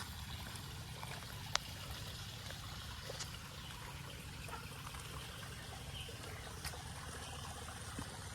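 Small channel of water trickling steadily, with one sharp click about one and a half seconds in.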